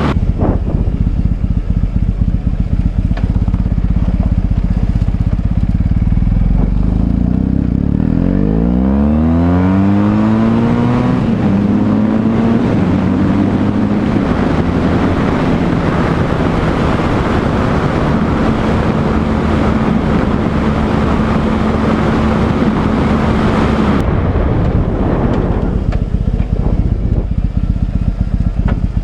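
BMW R1100S boxer-twin engine running on the road under heavy wind noise. About eight seconds in the engine note rises as the bike accelerates, then holds steady at speed with loud wind rush, which falls away abruptly near the end as the bike slows.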